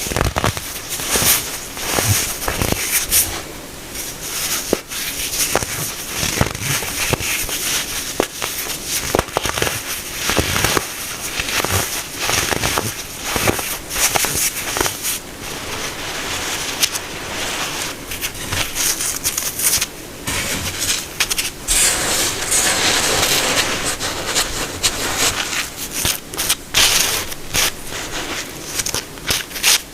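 Packed baking soda being crushed, a continuous run of crisp, crackling crunches.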